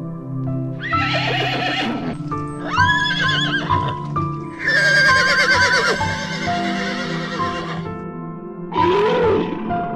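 Horses whinnying four times, each call with a quavering, wavering pitch; the third is the longest and loudest, about three seconds. Background music with sustained tones plays under them.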